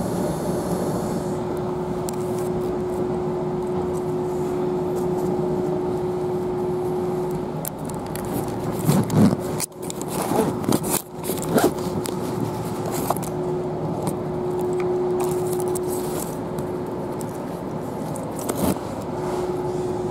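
Steady hum inside a Kintetsu electric train carriage, with a steady whining tone that fades in and out. About nine to twelve seconds in it is broken by rustling and knocks of the camera being handled.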